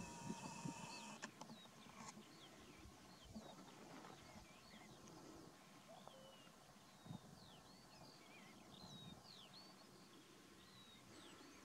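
Faint birdsong: many short chirping calls scattered over a quiet outdoor background.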